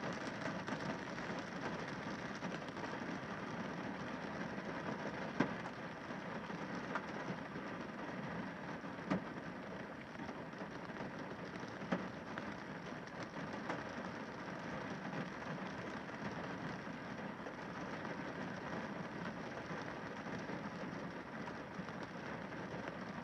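Rain falling on a car windscreen: a steady wash of rain with a few louder single drops striking the glass.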